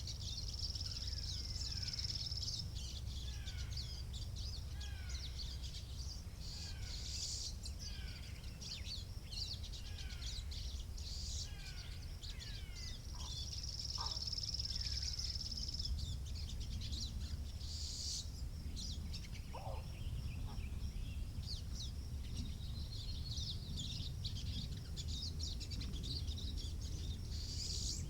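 Songbirds chirping and singing over a steady low wind rumble on the microphone. A short falling chirp repeats about once a second through the first ten seconds or so, and a high drawn-out trill sounds twice.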